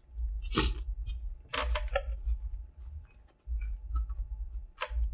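A person biting into and chewing a crispy fried chicken sandwich: a few short crunchy, wet mouth noises over a low rumble that comes and goes.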